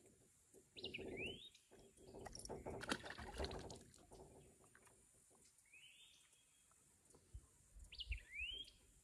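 A bird calling: a short, sharply rising whistled call about a second in and again near the end, with a fainter arching note between. From about one to four seconds there is a louder stretch of close rustling and handling noise.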